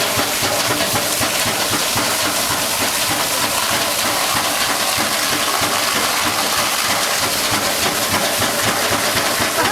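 1860s Shand Mason steam fire engine running and pumping water: a steady, loud rush of steam and water noise.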